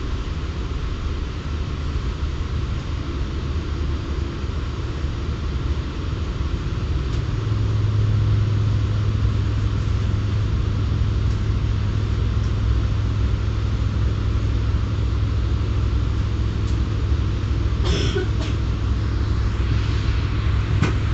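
Running noise inside a moving V-set electric intercity train carriage: a steady rumble, with a low hum that comes in about seven seconds in as the sound grows louder, and a short rattle near the end.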